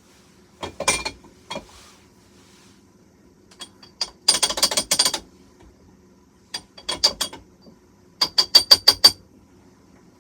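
A hand coffee grinder tapped and knocked to shake out the last grounds: four groups of sharp, clinking taps with a ringing tone. The longest rapid run comes about four seconds in, and six evenly spaced, louder knocks come near the end.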